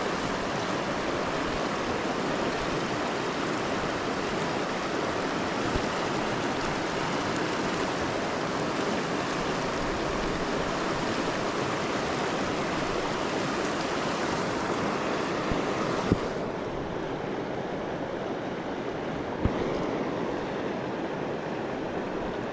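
Creek water rushing steadily over the stream bed. The sound becomes a little duller about two-thirds of the way through, and a couple of brief knocks come near the end.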